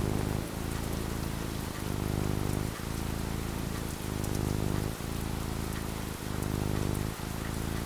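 Steady rain falling, with a heavy low rumble underneath that dips briefly about once a second.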